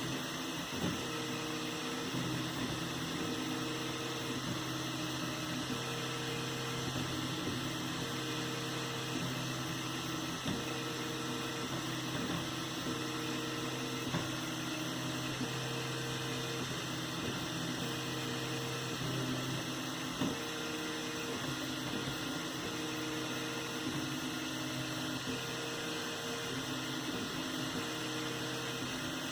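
3D printer printing: its stepper motors hum in short repeated tones that start and stop about once a second as the print head makes back-and-forth moves, over a steady drone from the machine.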